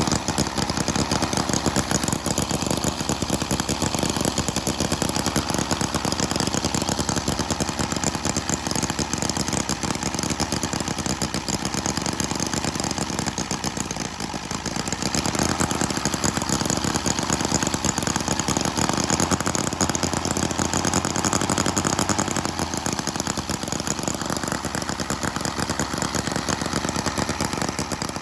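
Small model internal-combustion engine running steadily with a fast, even firing beat, cutting off abruptly at the end.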